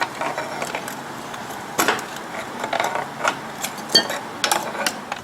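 Metal hand tools clinking and tapping as a socket and wrench are worked onto a bolt in the van's front suspension: several separate knocks, one about four seconds in ringing briefly.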